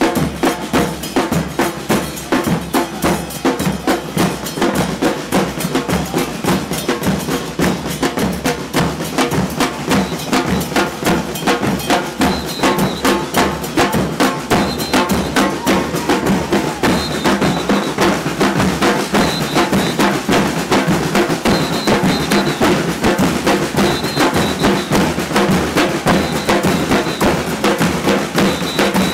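Murga drum section, bass drums with cymbals and snare drums, playing a fast, steady carnival rhythm.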